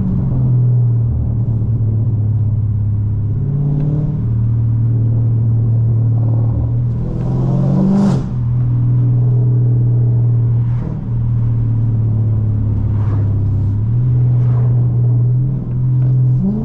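Dodge Charger Scat Pack's 392 HEMI V8 droning through catless midpipes and an MBRP race exhaust at a steady low-speed cruise. The pitch rises briefly about halfway through and again at the end as the throttle is pressed.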